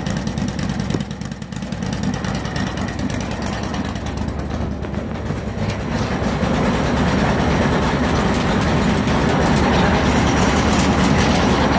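Bandolero race car's Briggs & Stratton V-twin engine running just after being started, a rapid steady beat that grows a little louder about halfway through.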